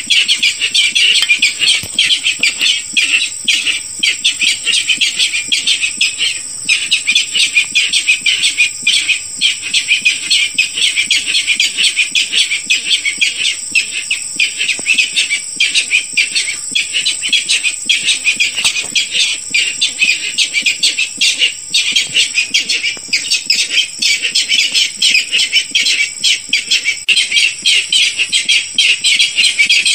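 Barred rail calls in an unbroken, rapid series of loud notes, repeated over and over as a bird-lure recording.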